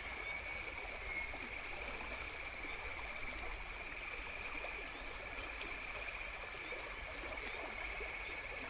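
Outdoor nature ambience of insects: a steady high trill with a short chirp repeating about twice a second that fades out about halfway through, over an even rushing hiss.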